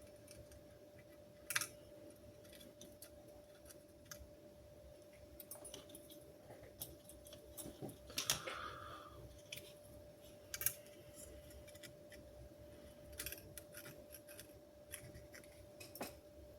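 Scattered sharp clicks and light metallic clinks of small tools and parts being handled, the loudest about a second and a half in, around eight seconds in and near eleven seconds, over a faint steady hum.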